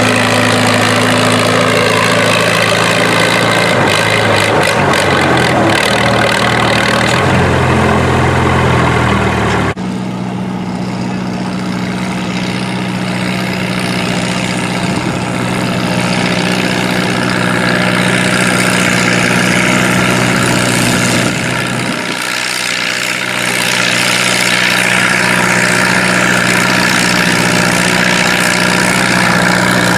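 Antique tractor engine running hard under load in a tractor pull, its pitch stepping down as it lugs. The sound changes abruptly about ten seconds in, then an engine runs steadily with a short dip about two-thirds of the way through.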